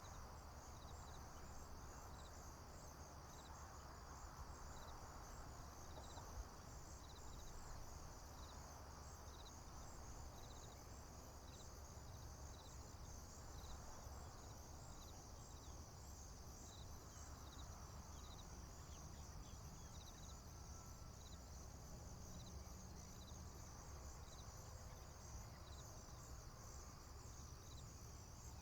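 Faint chorus of crickets and other field insects: a steady high trill, with a separate short chirp repeating about once a second, over a low steady rumble.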